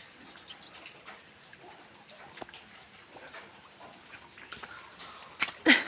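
A quiet background with faint scattered small clicks, then a short, loud animal call near the end.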